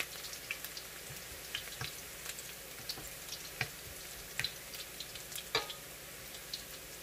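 Garlic sautéing in canola oil: an even sizzle with scattered small pops and crackles.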